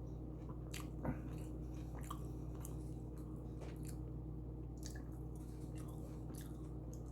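A person chewing a tuna fish sub: soft, wet mouth smacks and clicks every second or so, one louder about a second in, over a steady low hum.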